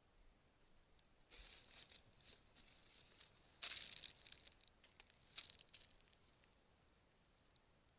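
Faint, irregular rustling and crackling in a few short bursts, the loudest about four seconds in, over a faint steady high-pitched tone.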